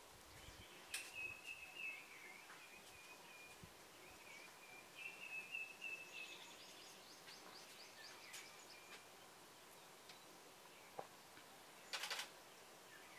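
Faint birdsong in quiet bush: a thin, wavering whistled song for several seconds, then a quick run of short high chirps. Near the end comes a brief rapid crackle, the loudest sound.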